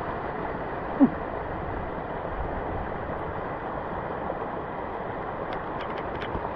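Steady rushing water noise, with a short, sharp pitched blip about a second in.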